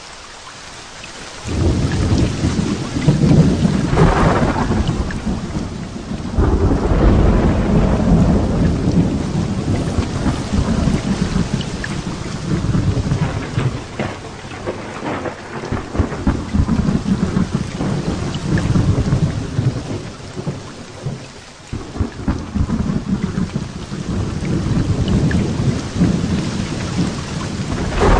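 Heavy rain falling steadily with long rolls of thunder. A deep rumble builds about a second and a half in, surges again a few seconds later and keeps rolling, easing briefly near the end before rumbling again.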